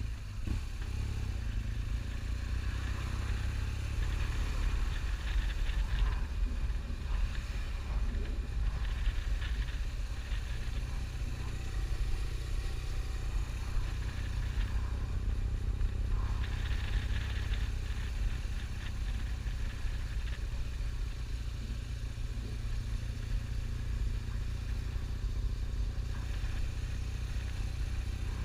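Motorcycle being ridden: steady engine and road noise picked up on the bike, with a constant low drone.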